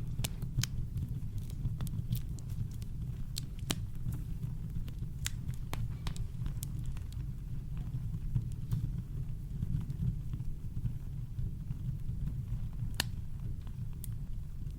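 Campfire crackling with scattered sharp pops over a steady low rumble of brown noise, with one louder pop near the end.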